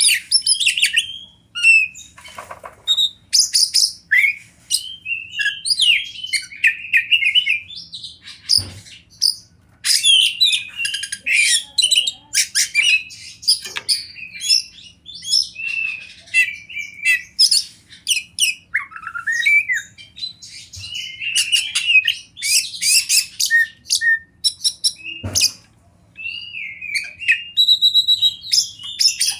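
Oriental magpie-robin (kacer) singing loudly and without a break: a fast, varied stream of whistled phrases, rising and falling slurs and scratchy notes. Two brief knocks sound, one about a third of the way in and one near the end.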